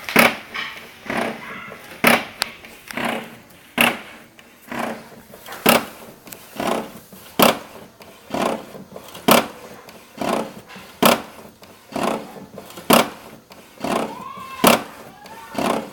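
HP OfficeJet 7612 inkjet printer printing an A3 sheet: a sharp mechanical clack repeats about once a second, stronger about every two seconds, with a whirring mechanism between the clacks. It is a knocking, locking-type noise that the printer makes only on A3 paper, and its cause is unknown. A short rising-and-falling whine comes near the end.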